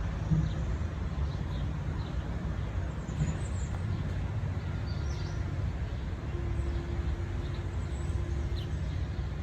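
Steady low rumble of distant city traffic, with a few faint, short bird chirps.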